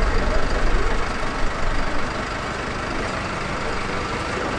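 A vehicle engine running at idle, a low rumble that is louder for the first two seconds and then settles into a steady background drone.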